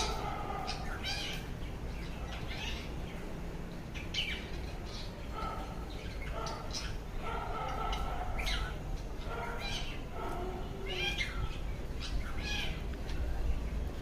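An animal's short, rough calls repeating every one to two seconds over a steady low hum, taken by the uploader for a night bird.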